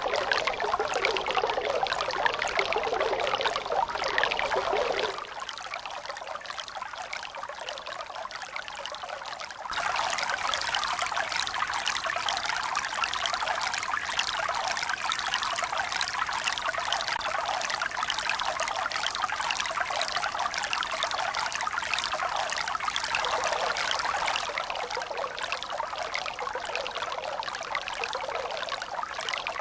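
Steady rush of running water, like a stream or pouring water. It drops abruptly to a softer, thinner sound about five seconds in, jumps back to full strength about ten seconds in, and eases slightly again a little over twenty seconds in.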